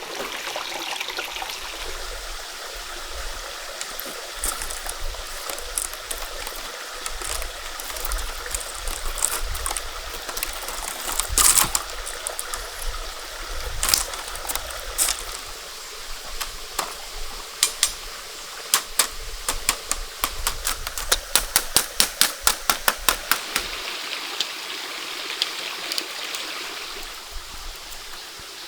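Steady rush of a flowing stream, with scattered sharp clicks or knocks on top. About two-thirds of the way through there is a quick run of them, about four a second, lasting several seconds.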